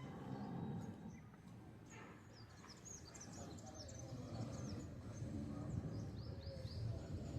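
Small birds chirping in quick clusters of short high calls, over a low background hum and faint distant voices.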